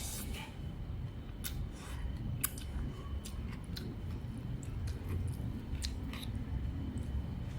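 Eating at a noodle bowl: chewing with scattered light clicks of spoon or chopsticks on the bowl, over a steady low background rumble.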